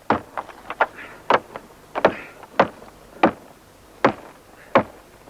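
A series of sharp knocks, about one to two a second, some louder than others.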